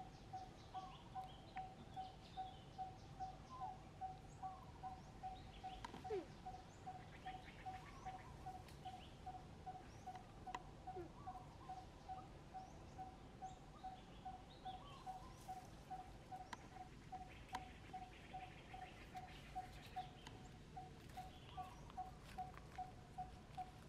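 A bird repeating one short, pure note steadily, about two or three times a second, with fainter chirps of other birds around it.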